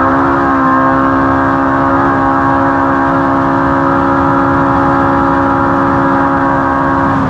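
Ultra4 off-road race car's engine and exhaust, held at one steady pitch at speed.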